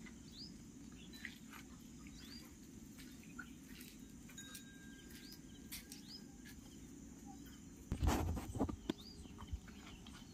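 Faint outdoor background of small birds chirping, short rising calls repeated about once a second over a low steady hiss. About eight seconds in there is a brief loud rustle.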